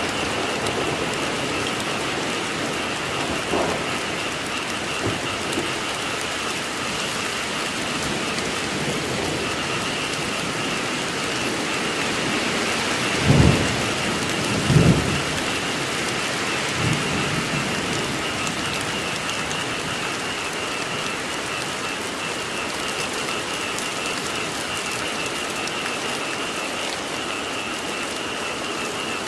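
Steady rain falling, with a faint continuous frog chorus beneath it. Two brief low thumps come about halfway through.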